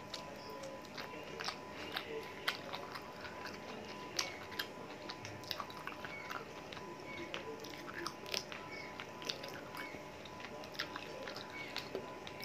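Close-miked chewing and biting as chicken leg meat is picked off the bone by hand and eaten, with many short, sharp mouth clicks and small crunches scattered throughout.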